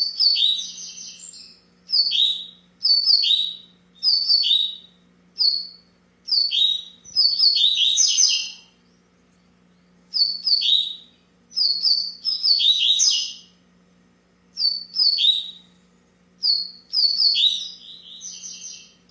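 Double-collared seedeater (coleiro) singing in the paulista song style: short, quick phrases of high chirped notes, repeated about a dozen times with brief pauses between. A faint steady low hum sits underneath.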